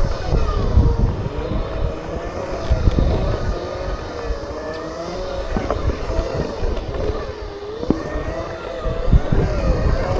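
Segway's electric motors whining, the pitch rising and falling as the speed changes, over a gusty low rumble of wind on the microphone.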